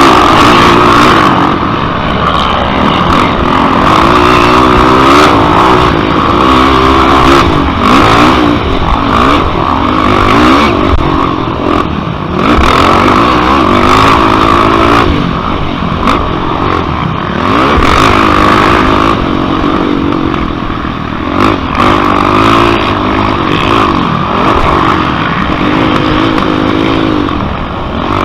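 Yamaha YFZ450 racing quad's single-cylinder four-stroke engine under hard racing throttle, repeatedly revving up and dropping back in pitch every second or two as it accelerates, shifts and backs off.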